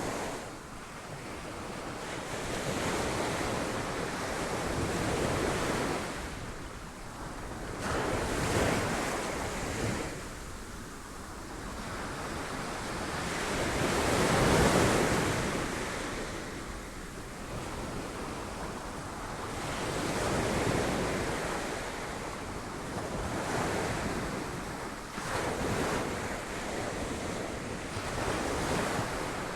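Sea waves breaking on rocks, the surf swelling and falling away every few seconds, with the biggest wave about halfway through.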